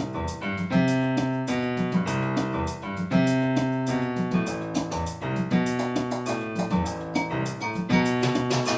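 Keyboard music with a Moog-style synthesizer sound: chords over a bass line, played in a steady rhythm.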